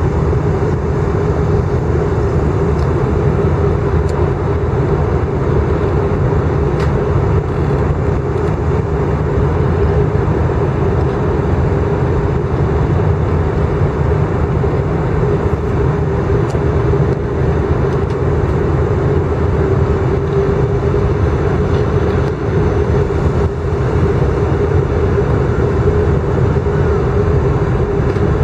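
Airbus A319 cabin noise in flight: a steady, loud drone of engine and airflow with a deep rumble and a constant hum, heard from inside the cabin on approach.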